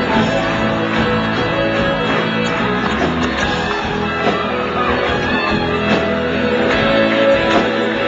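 Live country band playing in a club, with guitars and drums, as recorded from the audience.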